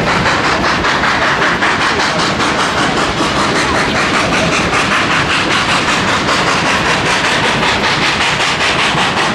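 Cumbres & Toltec narrow-gauge steam train heard while riding aboard: a steady, loud rumble and rattle of the cars on the rails, with a fast, even beat running through it.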